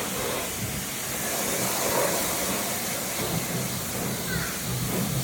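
Car wash water spray hissing steadily over the car, with a low hum underneath.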